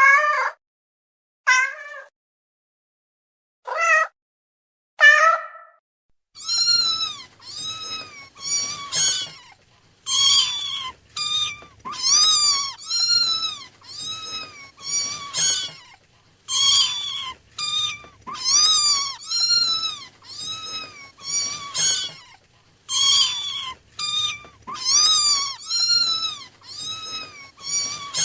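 Cat meowing: four short, separate meows in the first six seconds, then a fast, nearly unbroken run of high-pitched mews, each rising and falling in pitch, about two a second.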